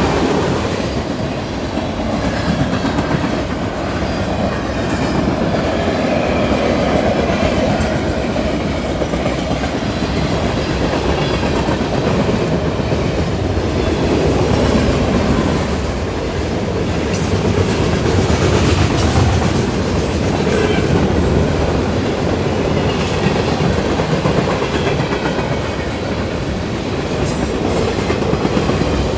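Freight cars of a CN manifest train passing at speed, the wheels clattering steadily over the rail joints. A few brief high-pitched squeaks come through about two-thirds of the way in and again near the end.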